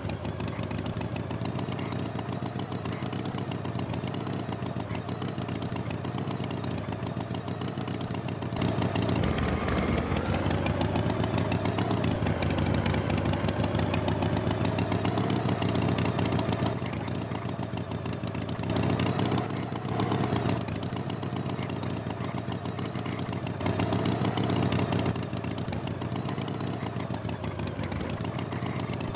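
Tractor engine running steadily, its pitch wavering up and down as it revs a little. It gets louder about a third of the way in and again briefly a few times later.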